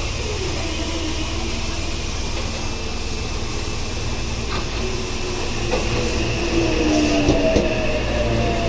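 Meitetsu electric train moving through the station, its motor whine falling slowly in pitch as it slows, over a steady low rumble, with a few light clicks from the running gear.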